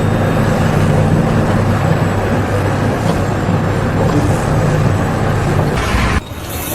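An engine running steadily with a low hum, cutting off abruptly about six seconds in.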